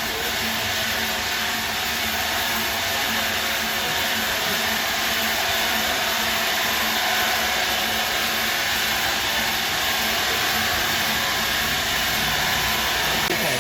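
A powered woodworking machine running steadily with an even whooshing noise that does not change.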